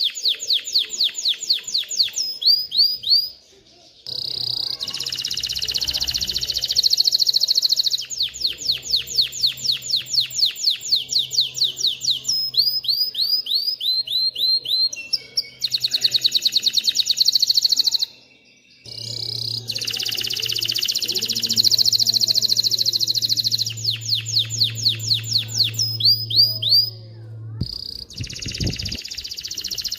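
Canary singing a long song of rapid trills: each trill is one short sweeping note repeated many times a second, and the song moves from one trill to the next every few seconds. It breaks off briefly twice, about three seconds in and again a little after the middle.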